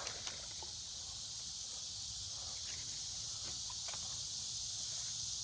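A steady, high-pitched chorus of insects singing, with a few faint clicks.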